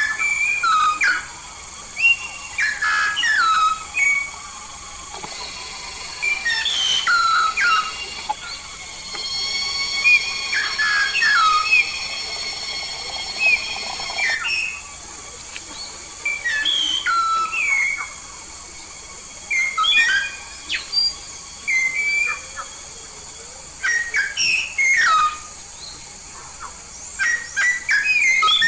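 A jalak paru kuning, a yellow-and-black Papuan myna, calls loudly and repeatedly in bursts of whistles and short gliding notes. It breaks into a longer held whistling phrase about ten seconds in.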